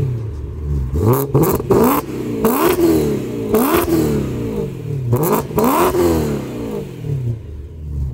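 BMW E92 M3's 4.0-litre V8 with a freshly fitted straight-pipe exhaust, being revved again and again in quick throttle blips about once a second. Near the end it settles back to a steady idle.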